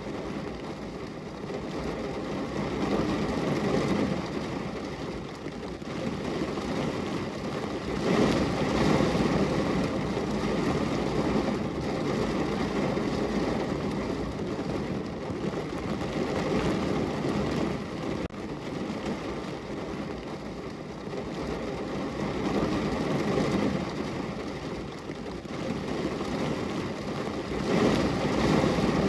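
Steady rain falling on a window, an even rushing patter that swells and eases every few seconds.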